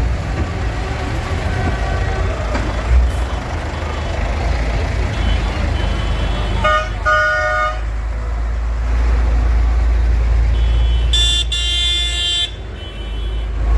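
Tractor engines running with a steady low rumble as they drive past, and two horn toots: one about halfway through lasting about a second, then a higher, brighter one near the end lasting longer.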